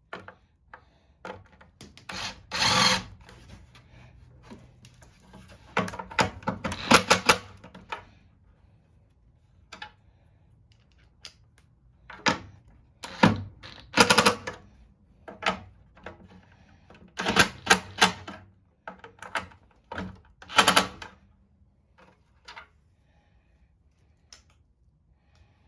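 Clattering clicks and knocks of hand tools and metal parts being handled, in rattling bursts of about a second, the loudest around 2, 7, 14 and 18 to 21 seconds in.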